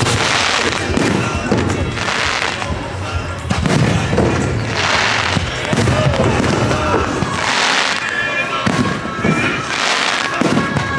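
Fireworks bursting every two or three seconds, each burst trailing a hiss of about a second, over show music playing on loudspeakers.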